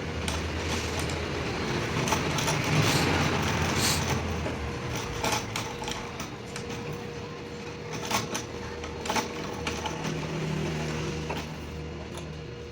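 Lathe turning a truck axle while a cutting tool scrapes the steel: a steady motor hum with a hissing scrape that swells about two seconds in, then fades, and scattered sharp clicks and knocks.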